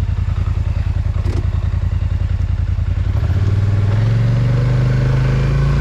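Polaris Sportsman ATV engine running at a low, evenly pulsing idle, then revving up a little after three seconds in and holding a higher steady note as the quad accelerates.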